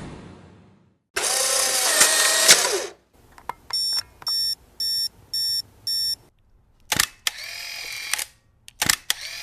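Camera sounds. A loud mechanical whir comes first, then five short electronic beeps evenly spaced about half a second apart. After that come two sharp shutter clicks, each followed by a short motor whir.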